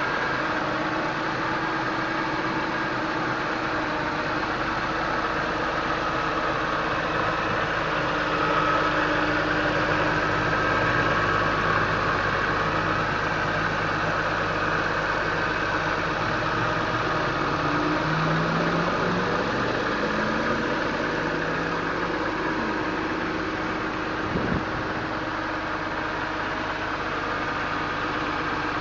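BMW E46 M3's S54 straight-six idling steadily while still cold, near 1,000 rpm, with no ticking from the VANOS. A single short knock sounds about 24 seconds in.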